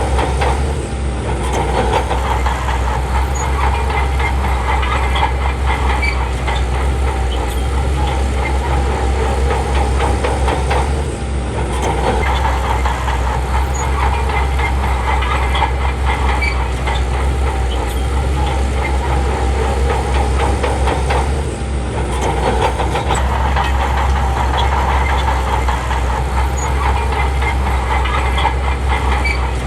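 Shantui crawler bulldozer's diesel engine running steadily with a heavy low drone and dense clatter from its tracks. The sound dips briefly three times, about ten seconds apart.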